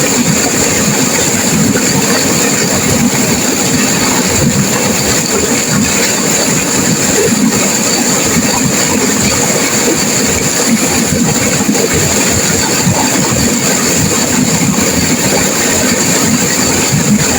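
Turbulent river water rushing and crashing, a loud steady wash of noise with no breaks.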